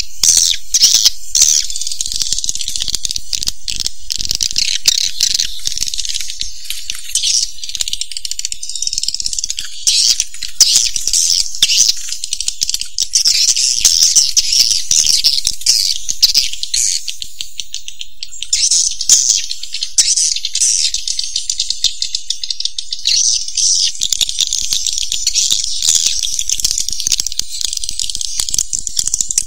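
Swiftlets calling: a dense, continuous high-pitched chatter of rapid clicking chirps. It is the kind of swiftlet call recording played to lure swiftlets to a nesting house.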